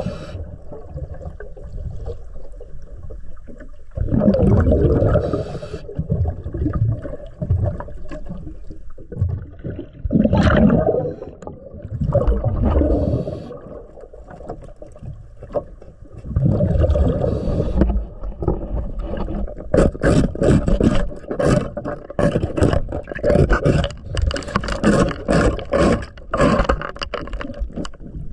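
Underwater: a scuba diver's exhaled breath bubbling out of the regulator in gurgling bursts every few seconds, and a scraper worked against the boat lift's fouled surfaces, in quick repeated strokes about two a second in the last third.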